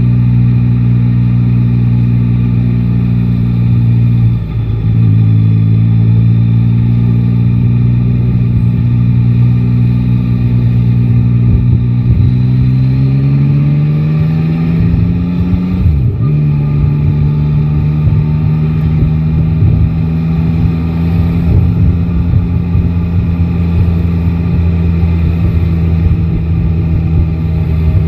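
Yamaha Tracer 9 GT's three-cylinder engine running under way, heard from the rider's seat. The engine note dips briefly about four seconds in, rises slowly, breaks again around sixteen seconds in as at a gear change, then holds a steady pitch.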